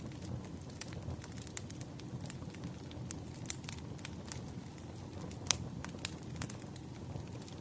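Campfire crackling: a steady low rush of burning wood with irregular sharp pops and snaps, one louder pop about five and a half seconds in.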